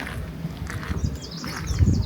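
Footsteps on a trail, thudding about once a second, the loudest near the end. A small bird sings a fast run of high chirps from about a second in.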